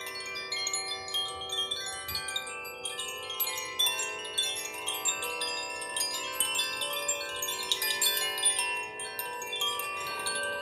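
Chimes ringing continuously, many overlapping sustained tones with frequent light strikes.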